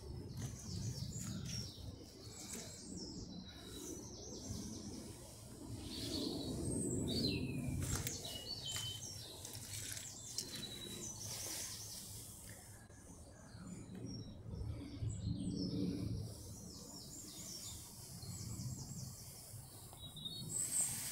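Small birds singing and chirping, with many short high trills and calls throughout. Low muffled rumbles come and go underneath.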